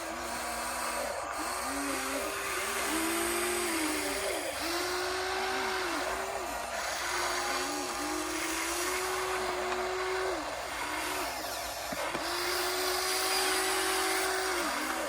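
RC excavator motors whining as the machines work: the pitch rises, holds for a second or two, then drops, over and over, with some whines overlapping, over a steady hiss.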